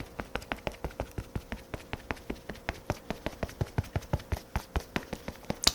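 Quick, even, light patting, about seven taps a second: a makeup puff being pressed against the face to blend in foundation.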